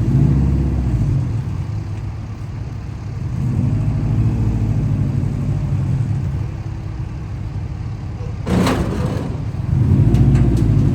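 Car engine revving, its pitch and loudness swelling up and falling back several times, with a short harsh burst of noise about eight and a half seconds in.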